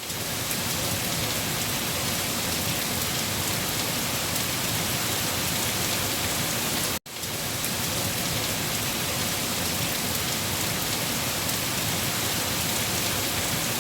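Heavy rain falling steadily on leaves, a dense even patter. It cuts out completely for a split second about seven seconds in, then resumes.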